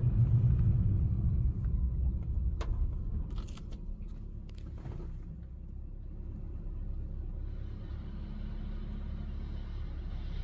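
Low rumble of a car driving, loudest at first and easing off after a few seconds, with a few faint clicks in the middle and a light hiss joining in near the end.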